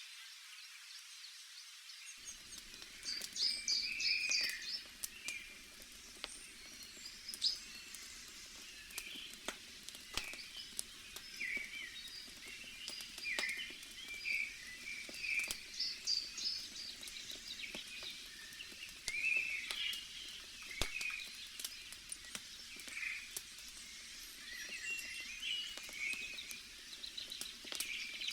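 Small birds chirping and calling again and again, over a low steady hiss, with scattered sharp pops and crackles from a wood campfire.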